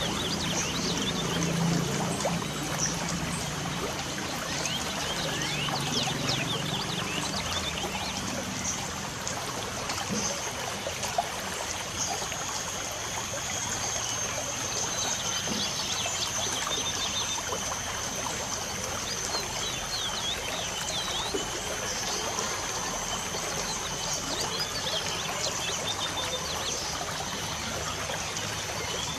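Light rain falling steadily, with many short bird chirps over it and a thin high steady tone from about twelve seconds in. A low hum sits underneath for the first several seconds and then fades.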